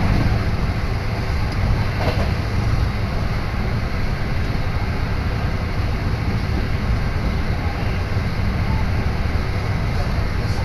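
Commuter train running at speed, heard from inside the carriage: a steady low rumble with a rushing noise over it.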